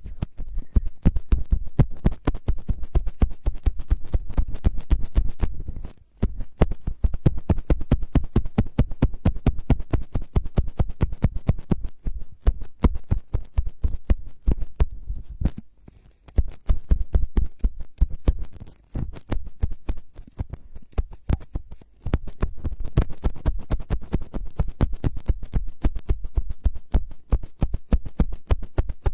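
Rapid, dense tapping and scratching right on a close microphone, ASMR-style, in long runs with brief breaks about six, sixteen and twenty-two seconds in.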